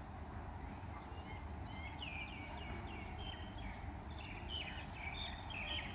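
Bird calls: a rapid series of short, high chirps starting about two seconds in and growing busier near the end, over a steady low rumble.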